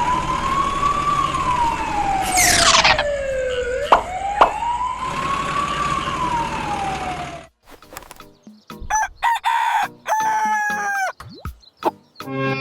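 Wailing siren, rising and falling slowly, with a quick falling swoop and two sharp clicks in the middle; it cuts off suddenly about halfway through. Several short high-pitched squawks with gaps between them follow.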